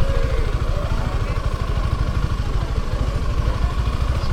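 Suzuki motorcycle engine running steadily, with a fast, even pulse of firing strokes.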